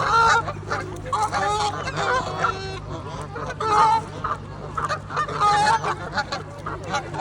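Geese honking, a string of short repeated calls over a steady low hum.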